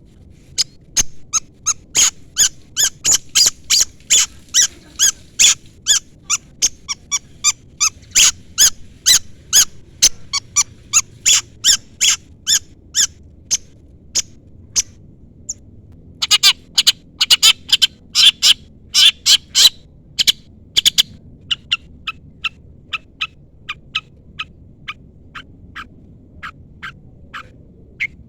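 Long-tailed shrike (cendet) giving long strings of sharp, high chirps, about three a second. There is a short pause about halfway through, then a dense run, and then the chirps turn softer and quicker.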